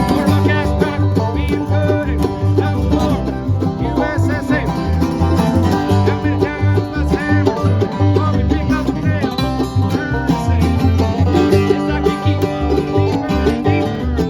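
Bluegrass band playing, with banjo out front over guitar and a bass line stepping from note to note underneath.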